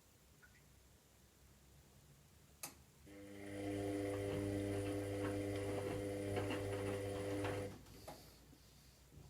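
Washing machine drum motor during the wash phase. A click is followed by the motor starting up and running with a steady hum for about four and a half seconds as it tumbles the load. It then stops, with a light knock as the drum settles.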